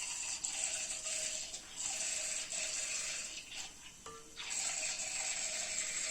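Handheld battery milk frother running in water, its small motor buzzing with a rattle. It cuts out about two thirds of the way through and starts again half a second later.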